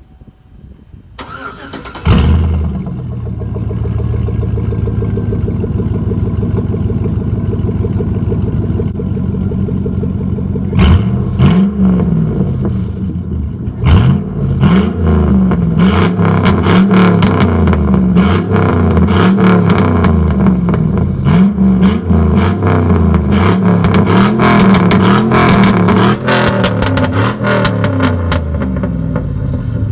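Straight-piped 2004 Z71 pickup's engine, exhaust unmuffled. It comes in loudly about two seconds in and runs steadily, then is revved over and over from about eleven seconds in, each rev rising and falling, before settling back to a steady idle near the end.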